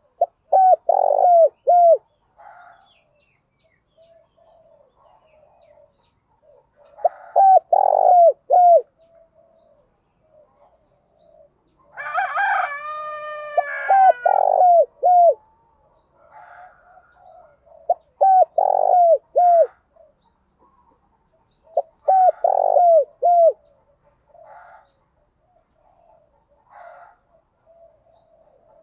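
Spotted doves cooing: repeated phrases of four or five quick, hooked coos about every four to five seconds, with softer coos between. About twelve seconds in a louder, drawn-out call falls in pitch.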